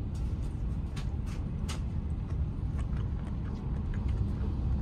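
Steady low rumble of a Kagayaki bullet train running at speed, heard inside the passenger cabin, with a scattering of light clicks and taps.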